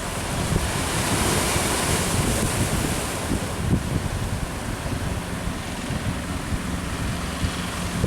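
Sea waves surging and breaking, with a swell of surf hiss about a second in, while strong wind buffets the microphone with a low rumble.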